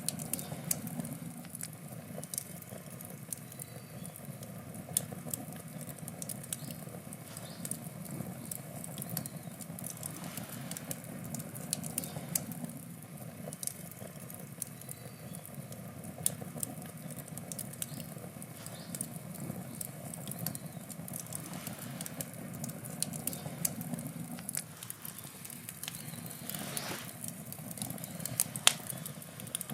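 Wood campfire burning, crackling with many small sharp snaps and pops over a steady low rush of flame. One louder pop comes near the end.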